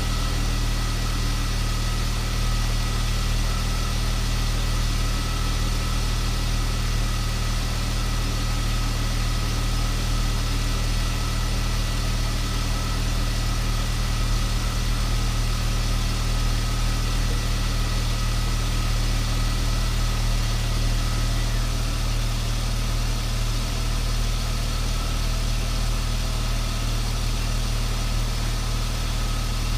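BMW S52 3.2-litre inline-six engine idling steadily, freshly filled with new oil.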